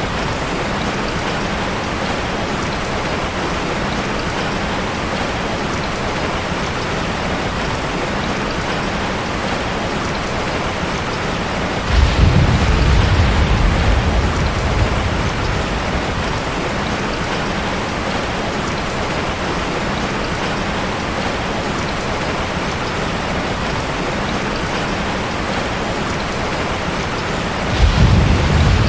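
Heavy rain falling steadily as a dense, even hiss. A low rumble of thunder comes in suddenly about twelve seconds in and lasts a few seconds, and another starts near the end.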